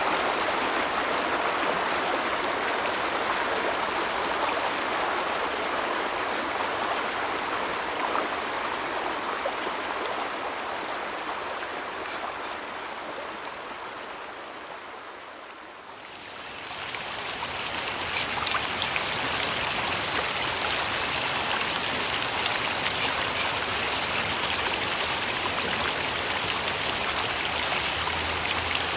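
Flowing stream water with a steady hiss that fades out about halfway through. Another running-water recording, brighter and hissier with a few faint drips, then fades in and holds steady.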